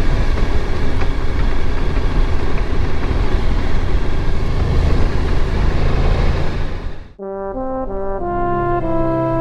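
Honda VFR1200X Crosstourer V4 motorcycle riding at a steady speed, engine drone mixed with wind rush. About seven seconds in it cuts off suddenly and slow music with long held notes begins.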